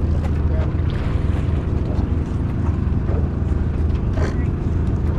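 Boat engine running steadily, a low even drone, with a few faint knocks over it.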